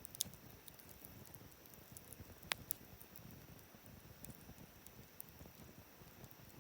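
Wood campfire crackling quietly, with a soft low flutter of flame and scattered small ticks; a few sharp pops stand out, one just after the start and two close together about two and a half seconds in.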